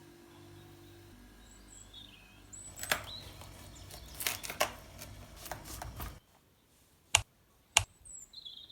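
Birds chirping faintly over a low steady hum, with a run of clicks and knocks in the middle. The background drops away suddenly, followed by two sharp clicks and a few more chirps near the end.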